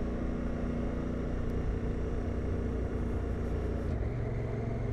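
Adventure motorcycle engine running steadily under way, with tyre and wind noise. The engine note changes about four seconds in.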